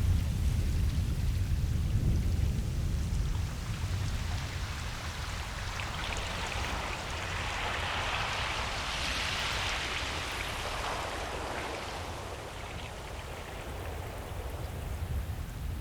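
Ocean surf on a beach: a steady low rumble of waves, with one wave washing in as a hiss that swells about six seconds in and fades away by about eleven seconds.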